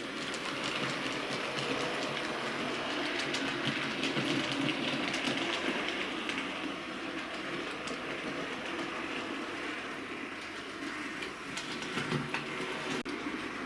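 Bachmann OO gauge A1 Pacific model locomotive running round the layout: a steady whirr of its electric motor and wheels on the rails, with light clicks as the wheels pass over rail joints and points.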